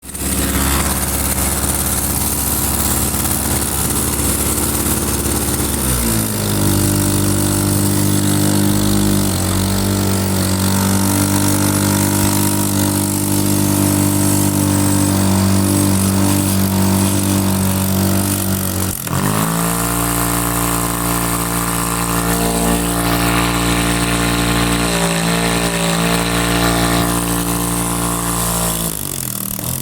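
Small 49cc two-stroke engine running continuously; its speed shifts and settles about six seconds in, dips briefly about two-thirds through and picks back up. The owner says it seems to run without a spark plug, and it has no kill wire to stop it.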